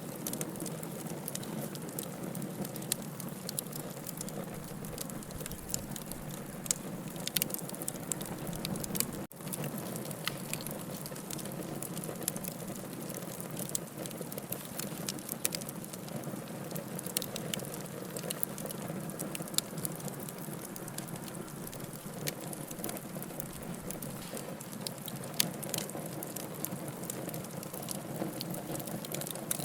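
Wood logs burning in a fireplace: a steady low rushing of the flames with frequent sharp pops and crackles scattered throughout.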